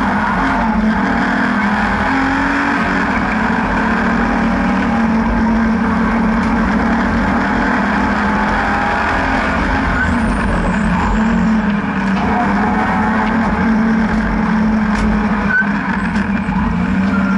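BMW N52B30 3.0-litre naturally aspirated straight-six in an E36 track car, running hard on track. The engine note is loud and continuous, its pitch shifting in the first few seconds and dipping briefly twice later on, over steady road and wind noise.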